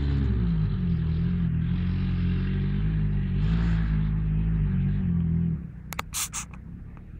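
Car engine running under load, its pitch rising and falling with the throttle, then dropping away abruptly about five and a half seconds in. A few sharp knocks follow near the end.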